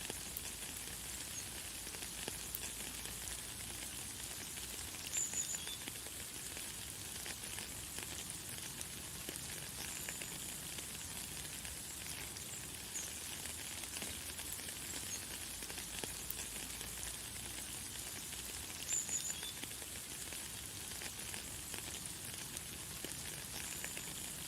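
Light, fine rain falling steadily: an even hiss with scattered drop ticks. A bird gives a few short, high chirps, the two clearest about five seconds in and again about three-quarters through.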